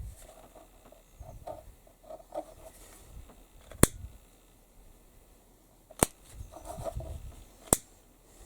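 Flint lighter's thumb wheel struck three times, each a sharp click about two seconds apart, with soft handling noise between. The lighter is being used to burn off and seal the ends of the stitching thread.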